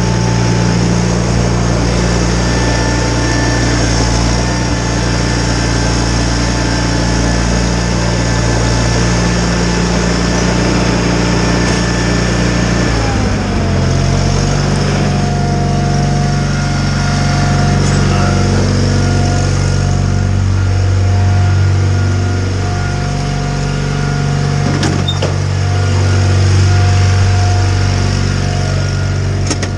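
John Deere 318 garden tractor's two-cylinder Onan engine running steadily while driving a Model 49 snowblower, with a thin whine above the engine note. About halfway through, the engine's pitch drops and stays lower.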